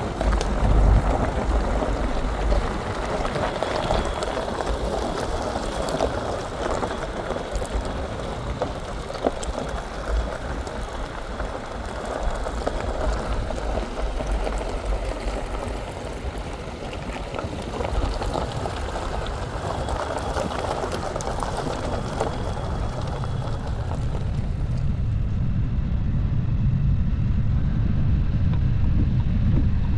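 Dacia Duster driving off-road: steady engine and tyre rumble with a crackling, splashing-like texture. Near the end the low rumble grows louder while the hiss fades.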